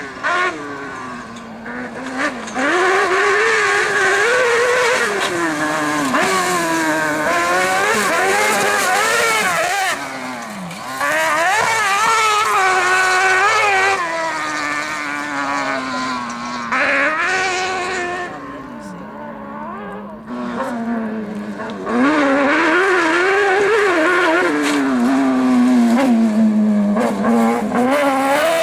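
Competition vehicle's engine on a gravel rally stage, revved hard, its pitch climbing and dropping again and again through gear changes and lifts. It gets louder about two seconds in and again near the end, with quieter stretches in between.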